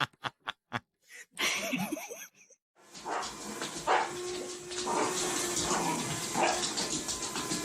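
A dog giving a quick run of short, high yips, then a brief wavering whine. About three seconds in, a steady rushing noise takes over.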